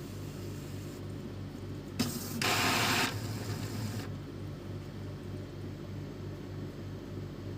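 Epson L310 inkjet printer mechanism running through its power-up cycle: a low steady hum, with a loud burst of mechanical motor noise about two seconds in that lasts about two seconds.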